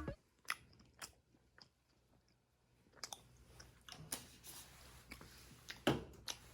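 A few faint, scattered clicks and light rustles, the loudest about six seconds in.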